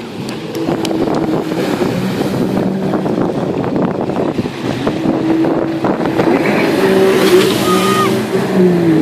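Jet ski engine running under way, its pitch steady and rising a little past the middle, over a loud rush of noise. It gets louder about a second in.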